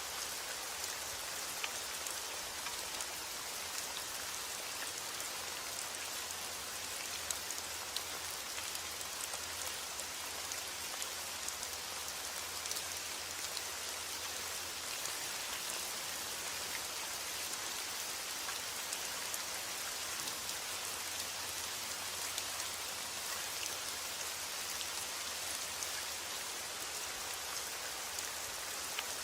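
Steady rain falling, with a dense hiss of many small drops ticking on a surface and no let-up or change.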